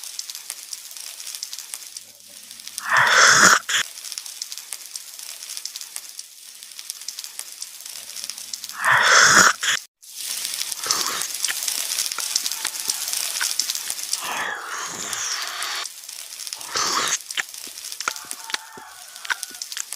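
Close-miked eating: steady crackly chewing and crunching, with several louder bursts, the loudest about three seconds and nine seconds in.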